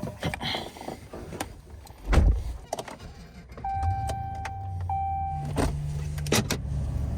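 Vehicle door clicks and a heavy thud of a door shutting about two seconds in. Then the 2013 Ram 1500's 5.7-litre Hemi V8 comes on and runs steadily, with a two-part electronic warning chime over it.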